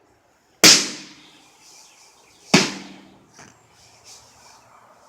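Two hard blows struck on a microwave oven, about two seconds apart, each ringing briefly as it dies away, with a lighter knock soon after the second.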